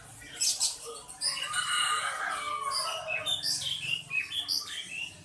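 Many caged birds calling and chirping at once, a dense mix of short, overlapping calls.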